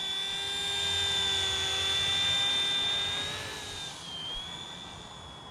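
Small electric RC helicopter's motor and rotors whining in flight, a steady high-pitched whine that dips briefly in pitch about four seconds in and grows quieter in the second half.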